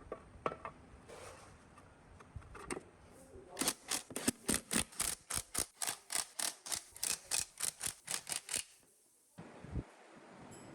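A few scattered knocks, then a rapid, even run of sharp strokes from a hand tool on metal, about five a second for some five seconds, that stops suddenly, followed by one more knock.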